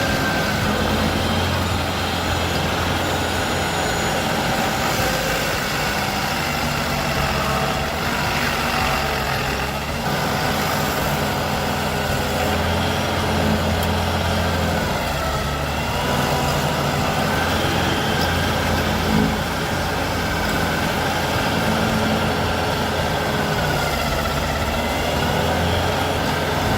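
A heavy machine's engine running steadily, with a strong low hum.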